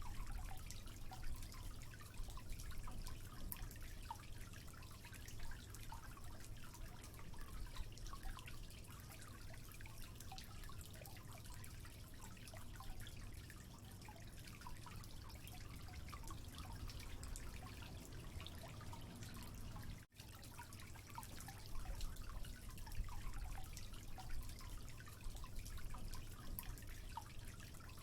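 Water dripping and trickling, many small irregular drips over a steady low rumble. The sound cuts out for an instant about twenty seconds in.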